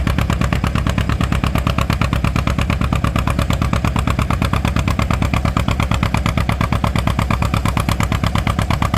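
John Deere G two-cylinder tractor engine pulling a sled under load, its exhaust thumping in a rapid, even beat of about eight pulses a second.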